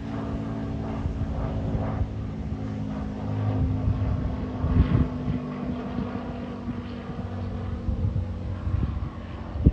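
Cirrus SR22 single-engine light plane flying by, its six-cylinder piston engine and propeller a steady drone, with wind buffeting the microphone about five seconds in and near the end.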